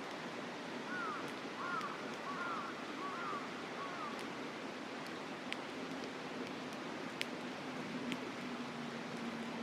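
Campfire crackling, with a few sharp pops in the second half, over the steady rush of a mountain river. A run of about five short swooping calls sounds between about one and four seconds in.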